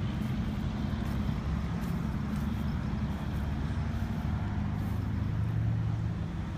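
Steady low rumble of motor traffic and idling vehicles, with the engine hum swelling a little for a few seconds past the middle.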